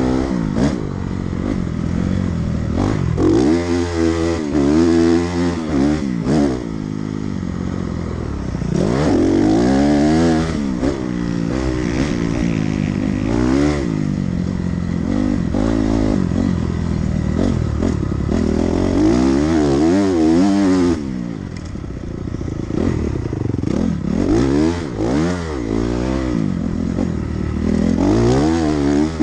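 Dirt bike engine being ridden hard, revving up and dropping back again and again as the throttle is worked through the gears, with scattered knocks and rattles.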